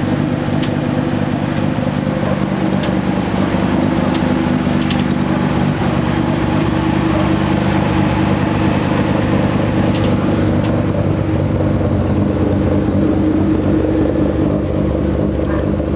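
Mazda RX-7's 6-port rotary engine with auxiliary bridgeports and turbocharger idling steadily after its first start, with a few faint ticks.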